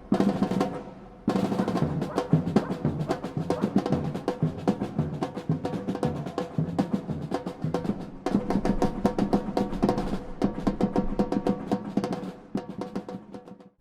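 Music driven by fast, busy drumming over pitched notes. It drops away briefly about a second in and fades out near the end.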